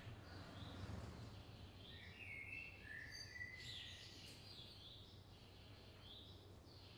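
Faint outdoor ambience of small birds chirping: a short call repeats about once a second, with a few louder chirps about two to three seconds in, over a steady low hum.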